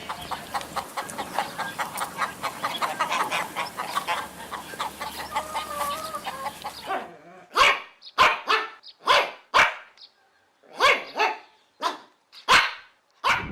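A dog barking: about nine short, sharp barks spaced by brief silences in the second half. Before them, a dense run of rapid, overlapping animal calls.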